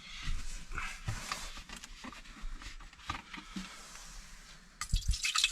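Water being poured into a cooking pot. A few light clicks of handling come first, and a louder steady pour starts near the end.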